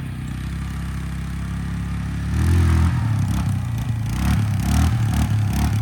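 Small motorbike engine running steadily, then revved hard about two seconds in, the revs rising and falling unevenly as the throttle is worked to lift a wheelie.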